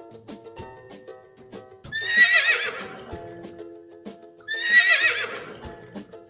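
A horse whinnying twice, each neigh about a second long with a shaky, wavering pitch that falls away at the end, over light background music with a ticking beat.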